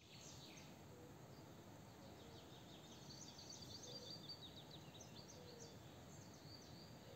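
Faint forest ambience with small birds twittering: many short high chirps throughout, with a few soft lower notes spaced a second or more apart.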